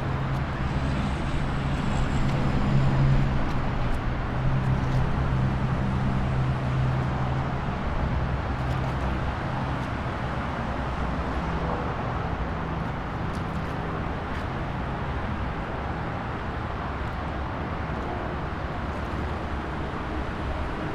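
Road vehicle sound effect: a steady low engine hum over road noise. It swells a little about three seconds in and eases after about ten seconds.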